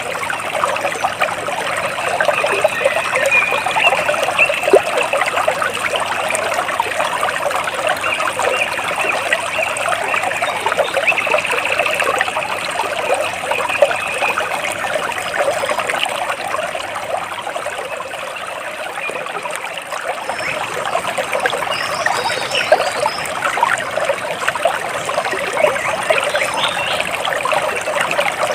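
Water splashing and trickling steadily, with a few faint, high bird chirps about three-quarters of the way through.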